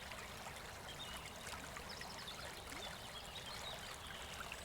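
Babbling brook: a steady, faint rush of flowing water.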